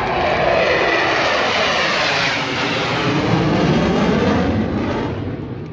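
F-16 fighter jet making a low pass: a loud jet roar whose pitch sweeps down as it goes by, dying away about five seconds in.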